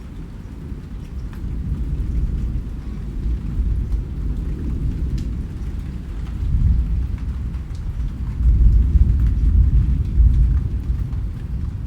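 Rain falling, with scattered faint drop ticks over a deep low rumble that swells about six seconds in and again, loudest, a little past eight seconds.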